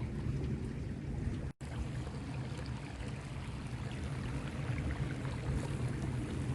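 Geyser steadily rushing and hissing, a deep, even roar of water and steam with a fainter hiss above it. The sound drops out for an instant about one and a half seconds in, then carries on unchanged.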